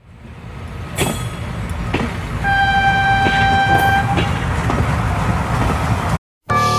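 Train running on the track with a steady low rumble and a few sharp clicks of wheels over rail joints; its horn sounds once, a single held note lasting about a second and a half. The sound fades in at the start and cuts off abruptly near the end.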